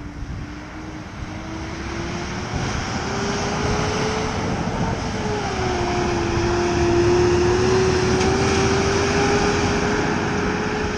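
Peterbilt 579 semi truck pulling a Timpte grain trailer, driving by with a steady engine drone and tyre-and-road noise; it grows louder to a peak a little past the middle and then eases off as it moves away.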